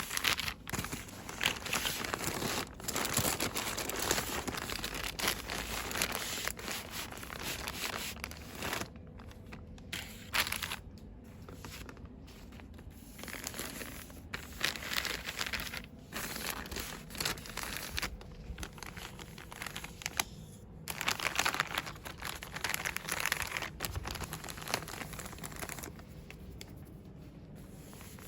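Store product packaging crinkled and rustled quickly by hand, in bursts with a few short pauses.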